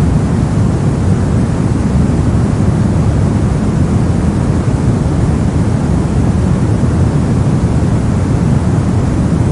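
Steady soft noise: an even, deep rushing sound, heavier in the bass than in the hiss, that never changes.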